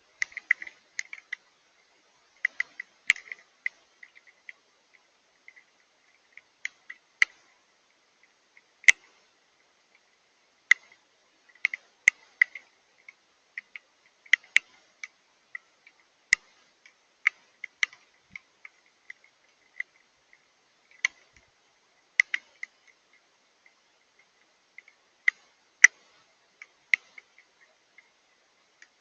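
Drops of rain and melting snow ticking on a hard surface close by: sharp single ticks and little clusters at an uneven pace, several per second at times and with pauses of a second or more.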